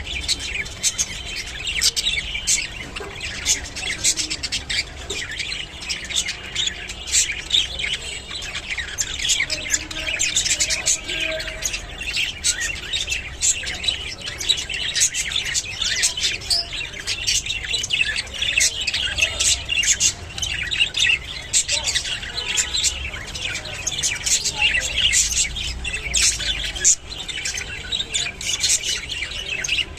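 A group of budgerigars chattering continuously, with many quick chirps and squawks overlapping.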